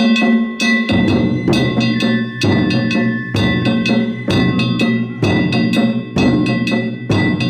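Danjiri float narimono: taiko drums and small hand gongs (kane) played in a fast, driving festival rhythm. The metallic gongs ring between quick sharp strikes, and a deep drum stroke lands about once a second.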